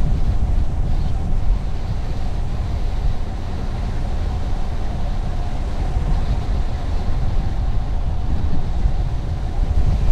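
Car driving along a highway: a steady low road rumble and tyre noise, with a faint steady hum above it.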